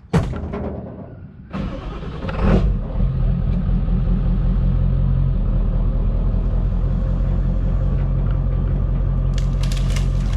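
A sharp knock at the start, then the dump truck's Power Stroke diesel engine cranks and fires about two seconds in and settles into a steady idle.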